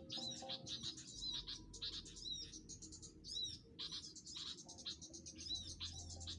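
Small songbirds chirping and calling rapidly, with many short, high notes and quick sweeping chirps overlapping.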